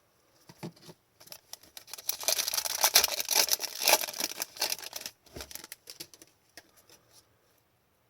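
Trading cards being handled and flipped through by hand: a few seconds of rapid dry rustling and flicking, loudest in the middle, with scattered small clicks around it.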